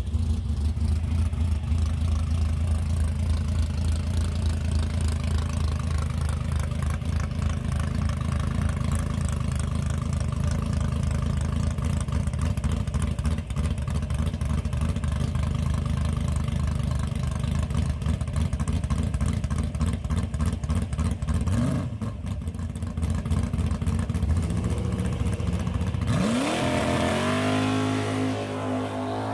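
A drag-race V8 engine idling with a steady, choppy rumble, then revving up with a rising pitch near the end.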